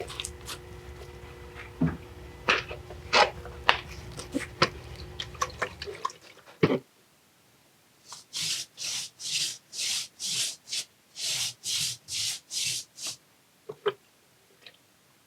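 A brush scrubbing bonding agent onto old brick and stone masonry in about a dozen even strokes, roughly two a second. Before that come several knocks and clatters of handling.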